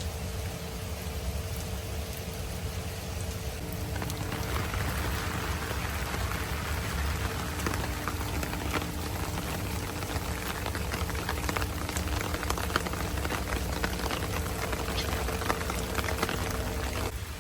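Heavy rain falling, dense drops pattering on a surface, getting heavier about four seconds in, over a low steady hum.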